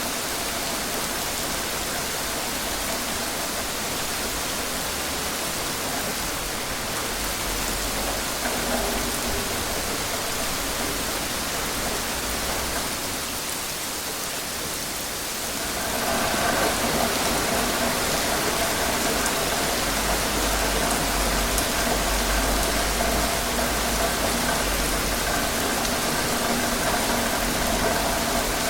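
Steady rain falling, a dense even hiss. About halfway through it grows a little louder, with a faint steady hum and a low rumble underneath.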